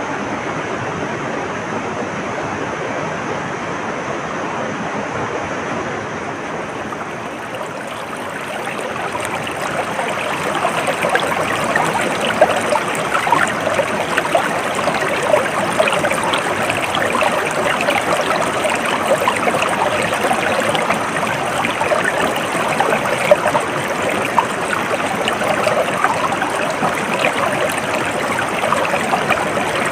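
Stream water flowing steadily. About eight seconds in it grows louder, with a busier splashing and babbling texture.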